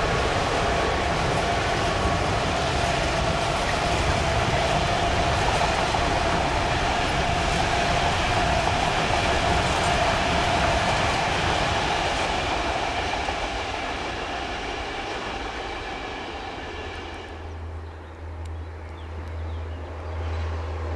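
Long freight train of covered wagons rolling past on the rails, a steady ringing tone over the dense wheel noise, fading away from about twelve seconds in. A low pulsing hum comes in near the end.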